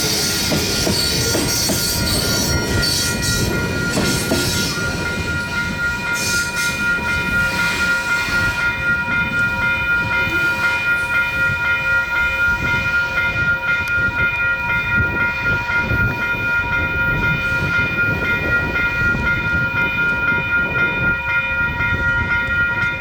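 Freight train passing loudly, a rumble under several steady high-pitched tones that hold from start to end, with extra high hiss over the first few seconds.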